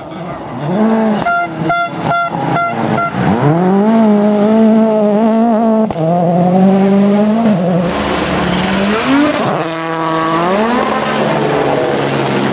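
Rally car engine at high revs. A rapid run of cracks comes about one to three seconds in, the pitch drops on a lift around three seconds and again near seven and a half, and it climbs in rising sweeps through the gears near the end.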